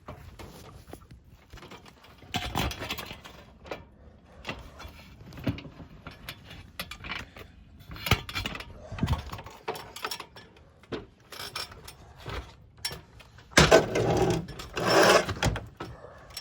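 Irregular footsteps, knocks and scuffs of a person climbing up onto a shingled roof, with louder scraping and thumping near the end.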